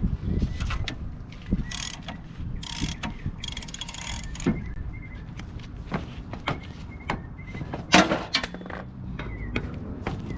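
Hand tools working on metal engine parts: scattered clanks and knocks, a short run of fast clicks about three and a half seconds in, and the loudest clank about eight seconds in.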